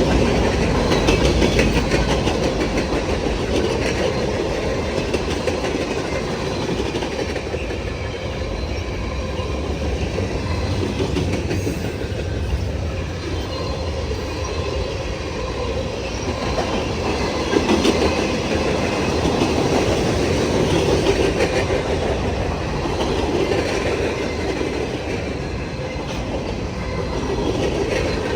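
Long mixed freight train's cars rolling steadily past, wheels clicking over the rail joints with a continuous rumble.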